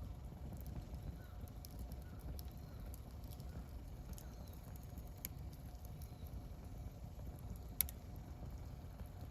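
Wood campfire burning: a low steady rumble with scattered small crackles and one sharp, louder pop about eight seconds in.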